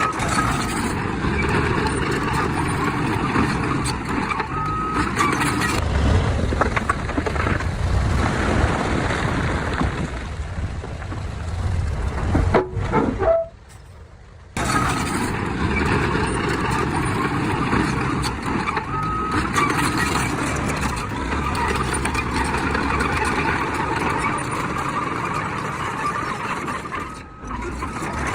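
Heavy diesel earthmoving machinery running steadily, with dense engine and mechanical noise. The sound drops away for about a second just past the middle, then resumes.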